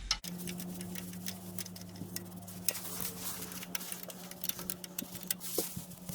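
Ratchet wrench clicking in irregular runs as the pressure washer pump's bolts are tightened, over a steady low hum.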